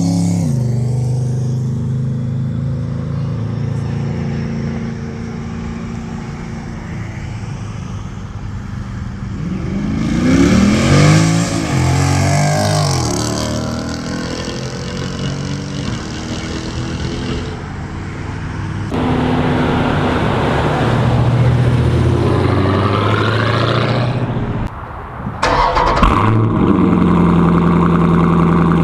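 Jeep Grand Cherokee SRT's 6.4-litre V8 running through a Corsa Xtreme cat-back exhaust. The revs rise and fall in a few swells, the loudest about ten seconds in. It settles to a steady note near the end.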